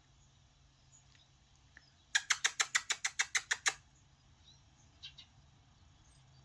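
A quick run of about a dozen squeaky mouth noises, some eight a second for about a second and a half, made by a person calling a cat; two faint ticks follow.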